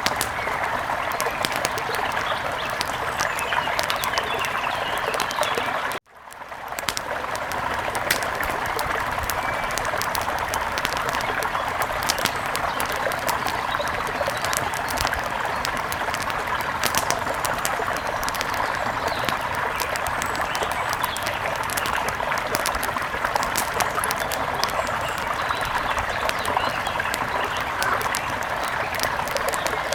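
Wood fire crackling, with frequent sharp pops over a steady rushing hiss. About six seconds in the sound cuts out for a moment, then fades back up.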